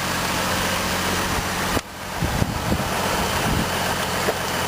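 2003 GMC Envoy engine idling steadily, heard from outside the vehicle with wind noise on the microphone. The sound drops out suddenly a little under two seconds in and comes back over the next half second.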